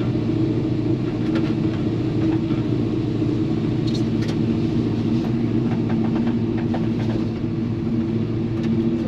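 Chevy C-10 pickup's engine idling steadily while it warms up, heard from inside the cab, with a couple of faint clicks about four seconds in.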